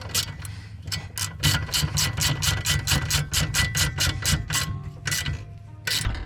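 Hand ratchet wrench clicking in a fast, even run of about five clicks a second as a nut or bolt is turned on the rear suspension, stopping about a second before the end.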